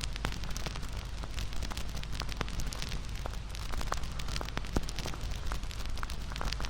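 Wood bonfire crackling, with frequent sharp pops over a low, steady rumble of burning. One pop stands out louder about three-quarters of the way through.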